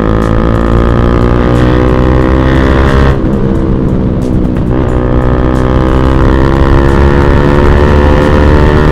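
Single-cylinder motorcycle engine pulling hard under throttle, its pitch climbing steadily. The note breaks briefly about three seconds in and again near five seconds as gears are shifted up, then keeps rising.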